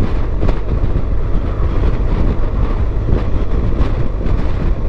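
BMW R 1200 GS motorcycle under way: its boxer-twin engine running with a steady rumble of wind and road noise, picked up by a helmet-mounted microphone.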